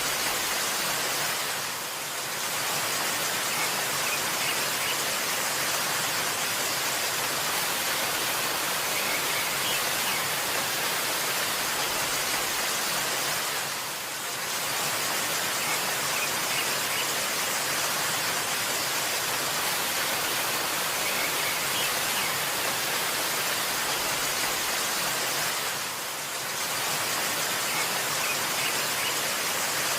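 Waterfall rushing in a steady hiss that dips briefly about every twelve seconds.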